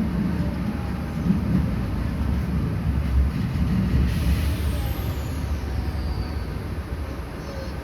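Enshu Railway electric train running, heard from inside the car: a steady low rumble of wheels on rail with a brief hiss about four seconds in, easing off slightly near the end.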